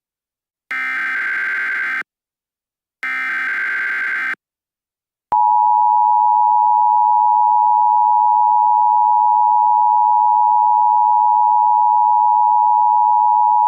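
Emergency Alert System SAME header: two short bursts of screeching digital data tones, about a second apart, followed about five seconds in by the loud, steady EAS attention tone that precedes a weather warning.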